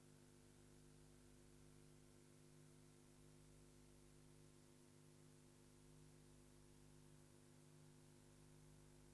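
Near silence: a faint steady electrical hum with hiss, typical of a dead air broadcast or an empty recording signal.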